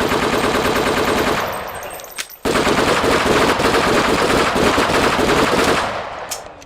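Sustained automatic machine-gun fire in two long bursts: the first trails off about two seconds in, and the second starts abruptly and fades near the end.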